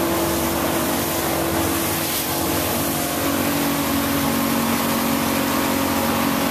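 Boat's engine running steadily under way, over a wash of wind and water noise. Its pitch drops a little about halfway through.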